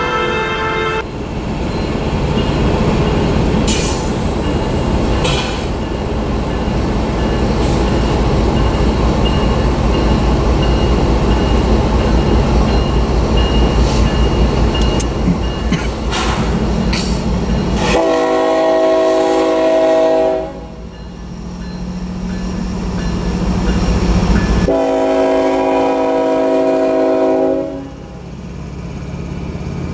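Union Pacific diesel locomotive 2664 passing close by with a loud, deep engine rumble and rolling rail noise. It then sounds its multi-chime air horn in two long blasts, with a third starting at the very end, while the autorack cars roll past.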